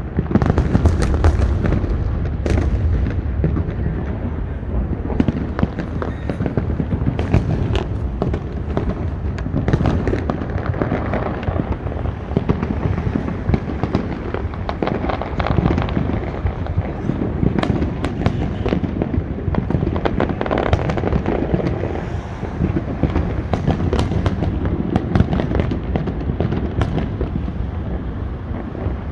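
Fireworks display going off continuously: a dense run of booming shell bursts and crackling, one over another, with a constant low rumble underneath.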